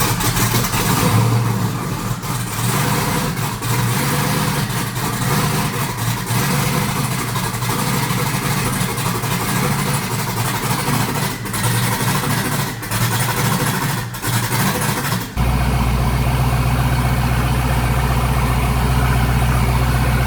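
Twin-turbo 5.3 L V8 Silverado truck driving and accelerating, the engine running rich with the air-fuel ratio around 11. The sound dips briefly several times, and about fifteen seconds in it changes abruptly to a steady deep drone.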